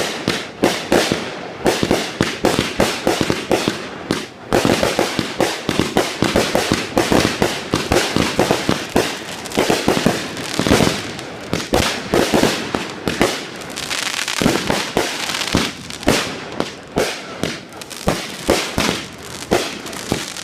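Fireworks going off in a rapid, dense barrage of bangs and crackling, many reports a second with hardly a pause.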